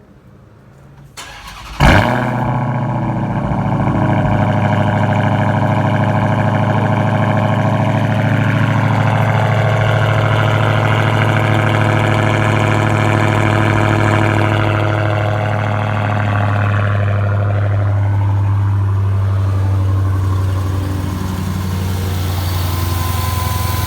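Dodge Hellcat Redeye's supercharged 6.2-litre Hemi V8, its mid mufflers deleted, cold-starting: a brief crank, a loud flare about two seconds in, then a steady fast idle that settles a little lower near the end.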